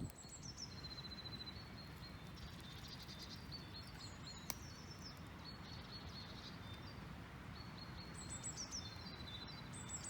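Small woodland songbirds singing, with repeated high phrases and short trills over a steady low outdoor background, and one sharp click about halfway through.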